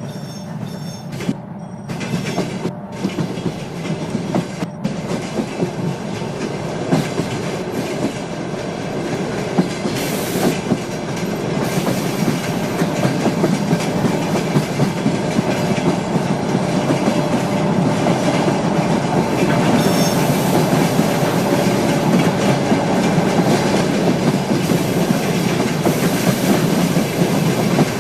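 A train running through a station, its wheels clattering over the rail joints, getting steadily louder as it comes closer.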